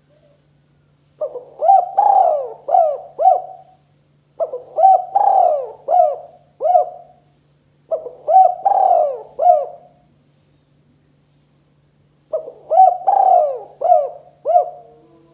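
Spotted dove cooing: four phrases, each a quick run of about five or six coos, with pauses of a second or two between phrases.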